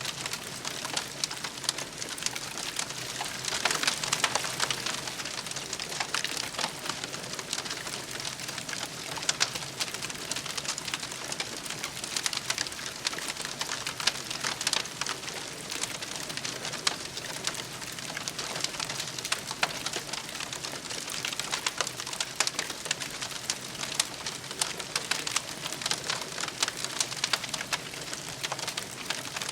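Wood campfire crackling steadily, with many small sharp pops and snaps over a soft hiss.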